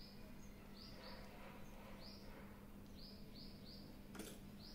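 Near silence: faint room tone with a low steady hum, and a small bird chirping faintly in the background, short high chirps repeated every half second or so. A faint click about four seconds in.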